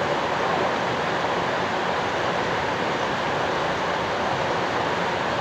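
Water rushing steadily, an even unbroken splash with no pauses.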